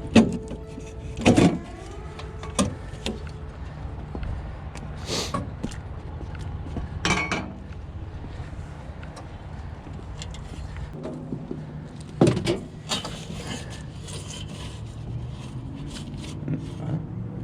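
Scattered metal clanks and knocks from sheet-metal parts being worked on while a heat exchanger is removed from a Trane heating unit, over a steady low hum. The loudest knocks come right at the start, about a second in, and again about twelve seconds in.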